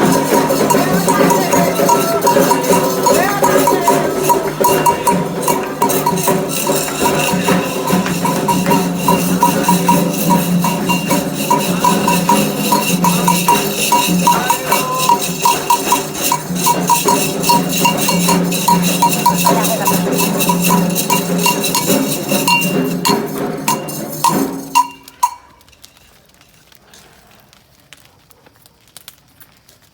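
Candomblé ritual music: hand percussion in a fast, even rhythm with voices, cutting off abruptly about five seconds before the end, after which only a few faint knocks are heard.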